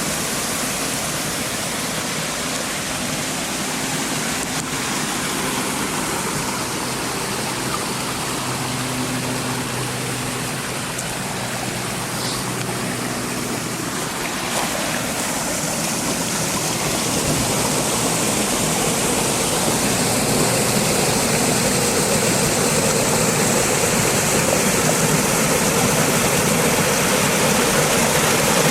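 Kent Falls' cascading water making a steady rushing sound, which grows louder about halfway through.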